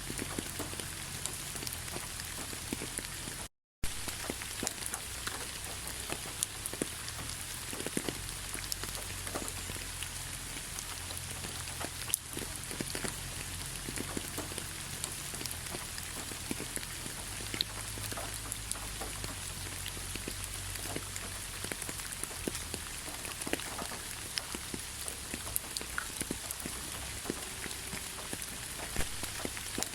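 Steady rain falling, with many separate drops ticking on a surface over a constant hiss. About three and a half seconds in the sound cuts out completely for a fraction of a second, then comes straight back.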